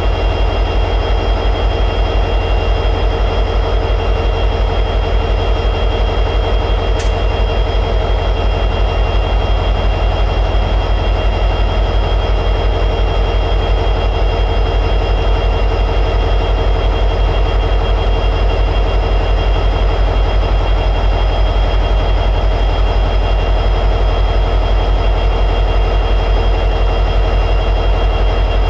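EMD 710G3B diesel prime mover of an SD60E locomotive running steadily at high idle: a deep, rapid throb with steady high whining tones above it. A single brief click about seven seconds in.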